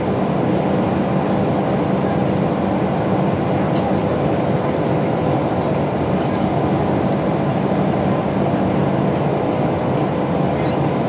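Cabin noise inside a Boeing 737-300 with its CFM56-3 engines running: a steady hum with a faint whine held on a constant note.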